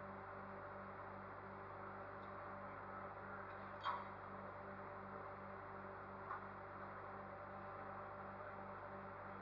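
Steady low electrical hum with a faint hiss and a slight regular pulsing in it, broken by two light clicks about four and six seconds in.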